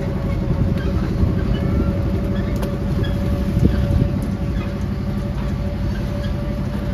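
Miniature zoo train running steadily under way: a steady low engine note with a constant whine above it.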